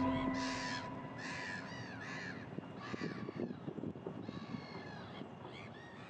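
Birds calling: a string of short, harsh calls, each rising then falling in pitch, over a low rustling noise. The whole sound fades steadily down.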